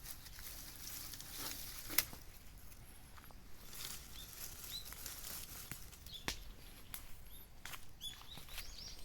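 Wood fire crackling, with scattered sharp pops over a soft hiss; the two loudest pops come about two seconds in and just past the six-second mark.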